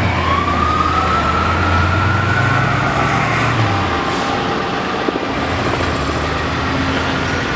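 Fire engine's siren in a slow wail, rising for the first couple of seconds, easing down, then rising again near the end, over the heavy engine of the truck pulling away.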